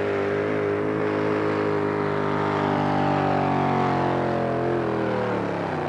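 Heavy-duty Ford pulling truck's engine running hard under full load as it drags a weight sled. The engine note climbs slightly midway, then sinks and fades near the end.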